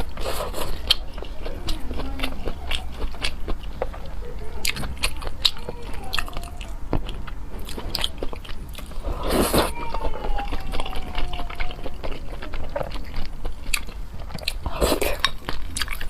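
A person eating close to the microphone: bites and chewing with many small wet clicks and smacks, and two louder noisy bursts about nine and fifteen seconds in.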